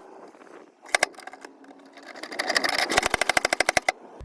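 Rapid metallic ratchet clicking from a ratcheting hand tool working a screw-in dent puller: a couple of clicks about a second in, then a fast, even run of about ten clicks a second near the end.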